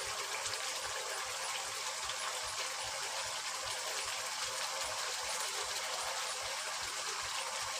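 Steady sizzling and bubbling of a potato and tomato masala cooking in oil in a wok.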